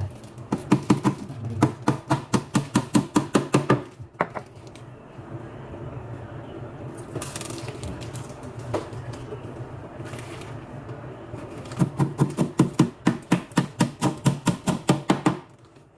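Hammer driving nails: quick, even strikes of about four to five a second, in a run over the first four seconds and another from about twelve seconds in, with a quieter stretch between them.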